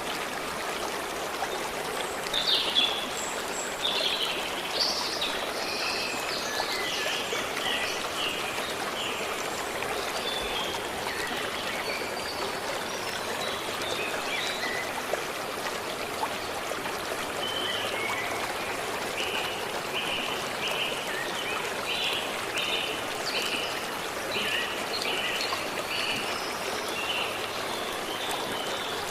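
Forest stream flowing steadily, with birds singing over it: a burst of calls in the first several seconds, then a run of short repeated notes, about two a second, through the second half.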